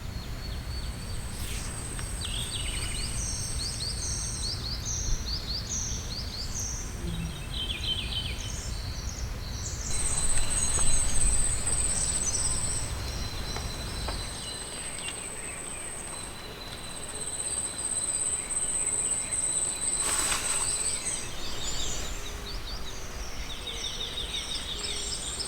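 Outdoor ambience of insects trilling in long high stretches, with birds chirping repeatedly over them. A low rumble underneath stops about halfway through.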